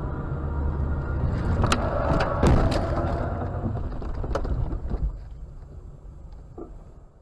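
Car collision heard from inside a vehicle: steady road and engine noise, then a cluster of sharp bangs and knocks about one and a half to three seconds in, loudest near two and a half seconds, and one more knock around four and a half seconds. After that the noise dies away.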